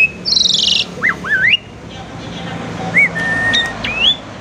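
Asian pied starling (jalak suren) singing: a harsh rasping note, then quick rising whistles, and a few longer whistled notes with an upward glide near the end.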